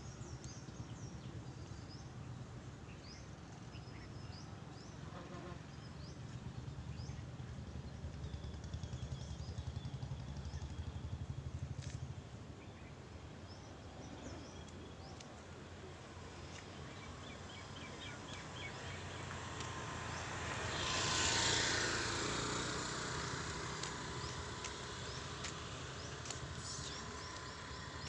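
Outdoor ambience: small birds chirping now and then over a low, uneven rumble. About twenty seconds in, a vehicle passes, swelling and fading over a few seconds.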